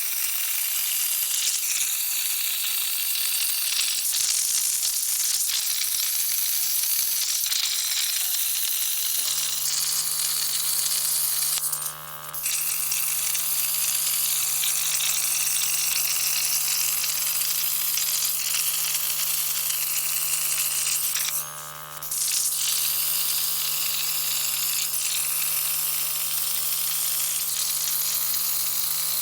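CNC plasma torch cutting steel, a steady loud hiss of the arc and air jet that cuts out briefly twice. A steady low hum joins about a third of the way in.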